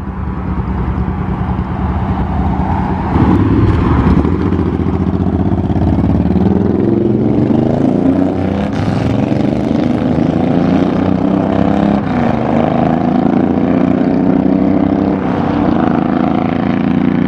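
Several Harley-Davidson V-twin motorcycles running and pulling away. The engine note gets louder about three seconds in, and the pitch rises and falls as the bikes rev.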